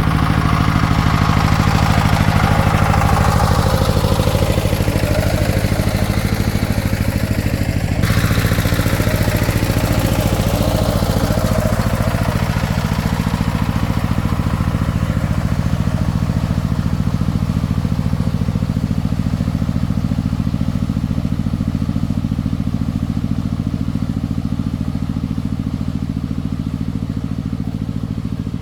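An engine running steadily at idle, with an even low beat. The sound shifts abruptly about eight seconds in, then goes on steadily.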